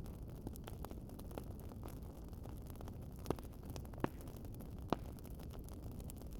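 Wood fire crackling: many small clicks over a low steady rumble, with three louder pops in the second half.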